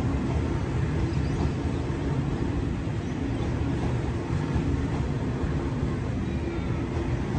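Double-deck electric passenger train rolling past along the platform: a steady low rumble from its wheels and running gear.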